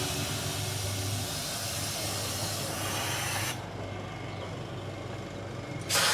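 Compressed air hissing from a blow gun: a loud steady blast for about three and a half seconds, dropping to a softer hiss, then blasting loudly again near the end.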